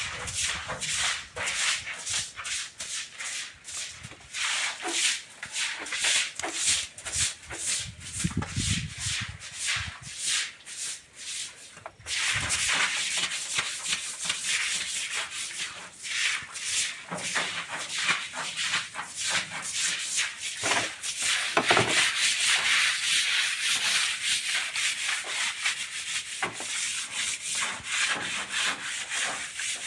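Rapid, rhythmic scrubbing strokes on a washroom surface worked with foamy detergent, about three or four strokes a second. The strokes break off abruptly about twelve seconds in and start again at once, and are denser and louder in the second half.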